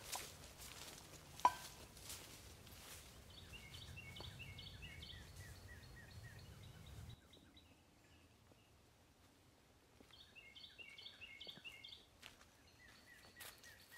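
Faint forest ambience: a small bird calling in quick runs of short chirps, in bouts, with faint footsteps on leaf litter and a single sharp click about a second and a half in. A low steady rumble under the first half stops abruptly about seven seconds in.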